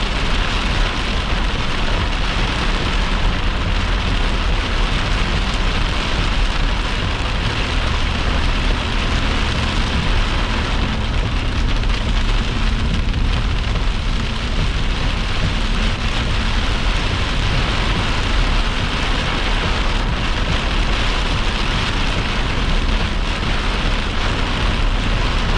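Heavy wind-driven rain beating steadily on a vehicle, heard from inside the cabin, over a low steady rumble of the vehicle.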